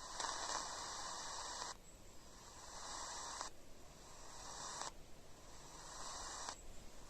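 Radio receiver static: a hiss that cuts in and out abruptly every second or two as the set is tuned or switches channels.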